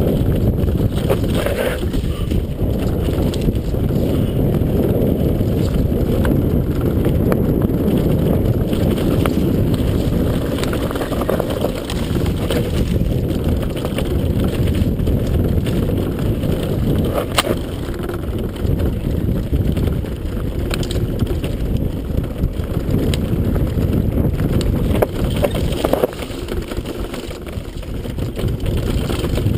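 Steady low rumble of wind buffeting the microphone and tyres running over rough ground on an electric off-road bicycle riding downhill. A few sharp knocks come through, one about halfway.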